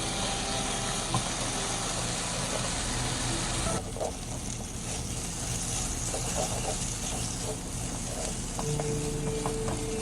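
Food sizzling in hot oil in a frying pan, with scattered clicks of a utensil stirring. The sizzle drops away suddenly about four seconds in, then goes on more quietly.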